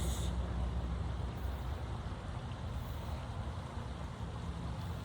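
Steady low background rumble with no speech, level throughout.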